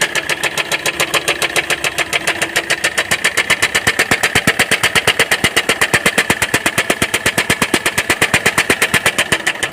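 The starter motor cranks the Hyundai Creta's diesel engine in a long, unbroken crank: a fast, even pulse of compression strokes over a steady starter whine. It is turning over after a timing job.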